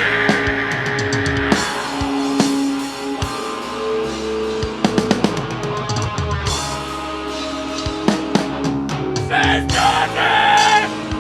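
A metal band playing live: drum kit strokes under held guitar notes, with a brighter, louder passage near the end.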